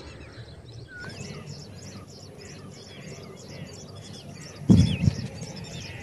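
Small birds chirping steadily in the background, several quick high chirps a second, with a few slurred whistled notes. A single low thump about five seconds in.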